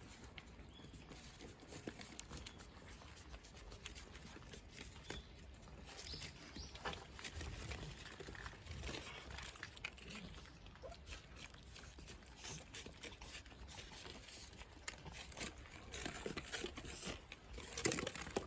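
Cats eating dry food: faint, irregular crunching clicks, with a louder cluster near the end.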